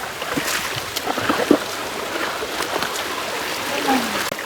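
River water running and gurgling over rocks below a waterfall, a steady rush with small splashes throughout.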